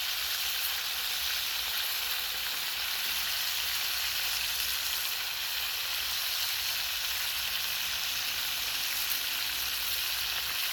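Food sizzling steadily in a cooking pot: an even, unbroken hiss.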